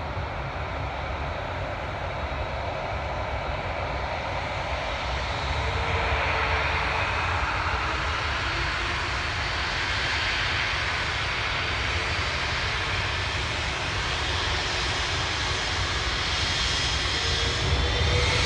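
An Airbus A380's four turbofan engines running as the airliner taxis: a steady jet rumble and hiss that grows gradually louder, with a faint high whine coming in near the end.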